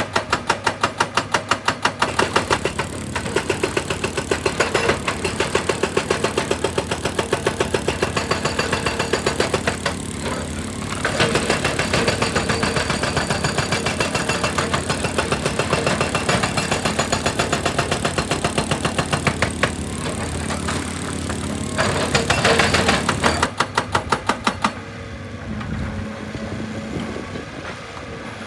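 Heavy excavating machinery's engine running under rapid, even percussive hammering on rock, several blows a second. The hammering stops near the end, leaving the engine running alone.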